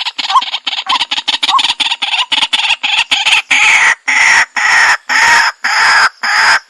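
White-breasted waterhen (dahuk) calling: a loud, harsh series of repeated notes, quick and short at first, then longer notes about twice a second from about halfway in.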